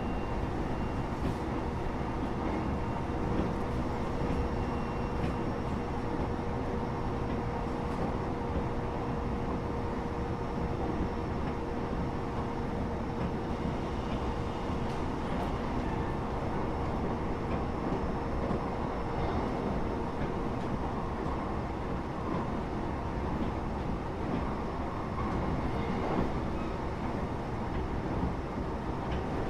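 Steady running noise inside a train carriage between stations: the continuous rumble of wheels on the rails with a faint steady hum.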